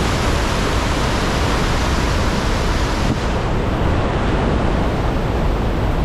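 Roar of a large waterfall, a loud steady rush of falling water, heavy in the low end; the hiss at the very top dulls slightly about halfway through.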